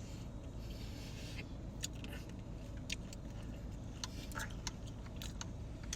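Steady low rumble of a car interior, with scattered faint clicks and small taps, more of them in the second half.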